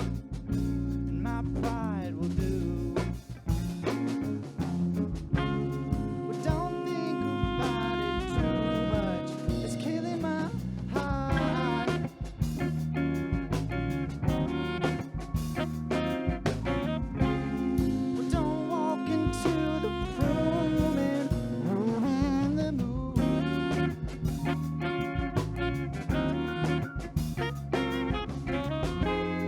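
A live rock band with saxophone playing an instrumental passage, the saxophone carrying a bending melody over piano, bass guitar, electric guitar and drums.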